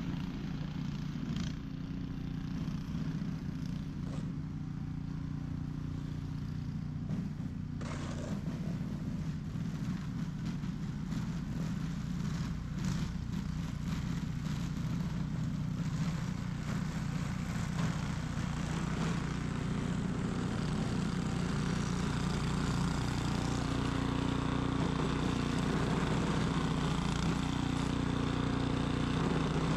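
Ariens 21-inch professional snow blower's engine running steadily at work speed while clearing snow. A hiss of thrown snow grows louder in the second half, with scattered short ticks around the middle.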